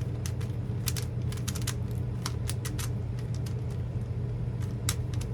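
Plastic puzzle cube being turned by hand: quick, irregular clicks of its layers turning, in short runs, over a steady low hum.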